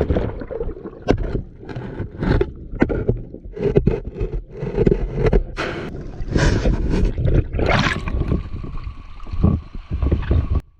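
Water splashing and gurgling close to the microphone, with irregular knocks and scrapes.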